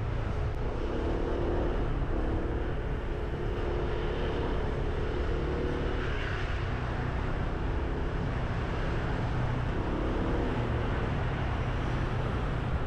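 A motorbike being ridden, heard from the bike: the engine running steadily under the low rush of wind on the microphone, with a pitched engine hum wavering through most of it.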